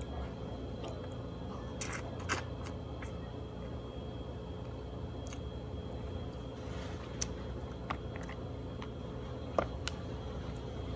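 A person chewing and biting into stewed chicken, with a few short sharp clicks and smacks scattered through, over a steady background hum with a faint high whine.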